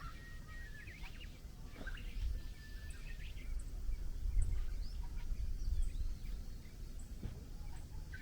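Small birds calling outdoors, a scatter of short whistles and chirps, over a steady low rumble.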